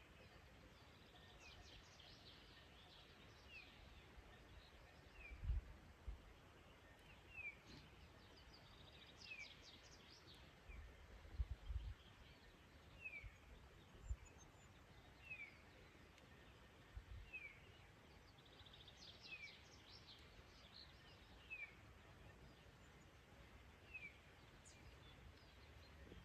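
Faint bird calls: a short downward chirp repeated about every two seconds, with a few quick rattling calls in between. A few soft low thumps come through as well.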